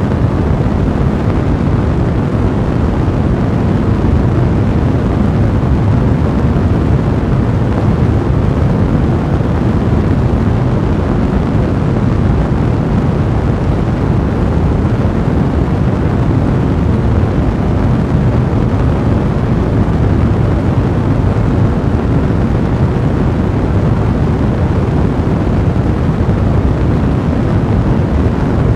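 Fire blazing in a fireplace: a steady, dense low rumble of flames with crackling.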